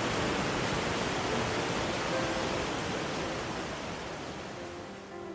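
Steady rushing roar of a waterfall, fading down near the end as faint piano music comes in underneath.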